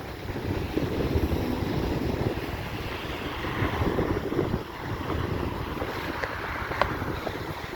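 Blizzard wind buffeting the microphone: a steady rushing rumble that swells and eases in gusts, with one short click near the end.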